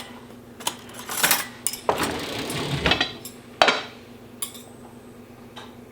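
Metal utensils clinking, knocking and scraping against a dish in irregular strokes as cooked pheasant meat is shredded, the loudest knock about three and a half seconds in, then quieter near the end.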